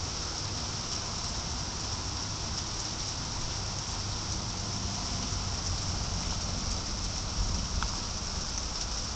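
Steady rain falling during a thunderstorm, an even, unbroken hiss of the downpour.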